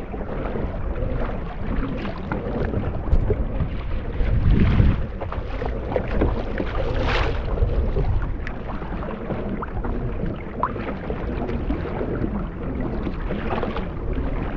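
Water and wind noise around a fishing kayak at sea, with scattered small knocks. A louder low rumble comes about four and a half seconds in, and a short whoosh about two seconds later.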